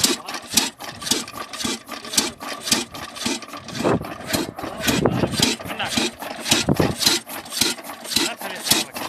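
Slow-speed 22 HP single-cylinder diesel oil engine running at about 300 RPM, with a steady rhythmic clatter of a few sharp knocks a second.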